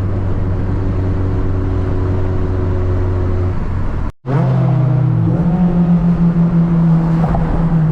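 Honda Civic four-cylinder engine running at a steady drone, then after a brief dropout about four seconds in, revving higher: its pitch climbs over about a second and then holds, with a pulsing level.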